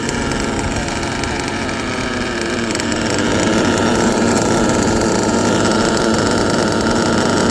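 Twin small nitro engines of an RC monster truck running steadily, with a steady buzzing drone that gets a little louder about three seconds in.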